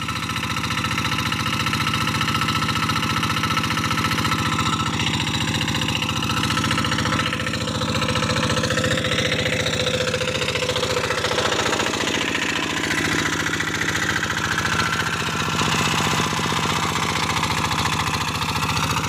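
Kubota single-cylinder diesel engine of a Quick G1000 Boxer hand tractor running steadily under load while it pulls a ridging plough through loose soil; its pitch wavers slightly around the middle.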